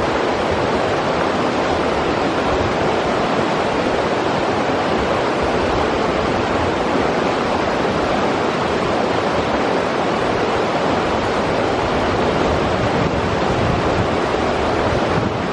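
River water rushing steadily over rocks, a constant even rush with no breaks.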